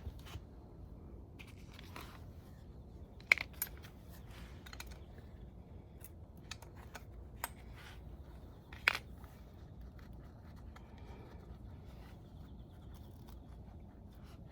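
Scattered small clicks and clinks of tools and parts being handled during engine disassembly, the two sharpest about three seconds and nine seconds in.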